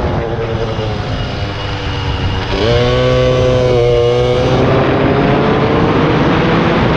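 Air-cooled 70 cc Polini minimotard single-cylinder engine under riding load. The revs sag off the throttle, rise sharply about two and a half seconds in when the throttle opens, then climb steadily again through the second half. Heavy wind noise runs over the engine.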